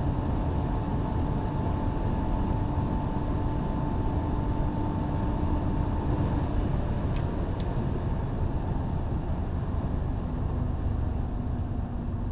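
Lexus IS200's 2.0-litre 1G-FE straight-six running steadily at high autobahn speed under heavy road and wind noise, its engine note dropping a little in pitch about seven seconds in. Two brief ticks come just after the drop.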